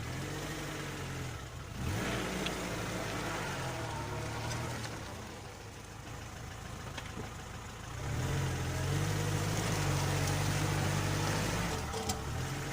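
Niva's engine running under load off-road, its pitch rising and falling as the throttle is worked, louder and held higher for a few seconds near the end.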